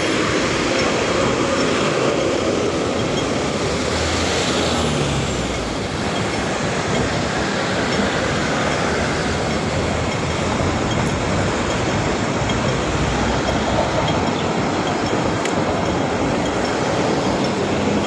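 Steady running noise of a moving vehicle, a continuous rumble with no breaks.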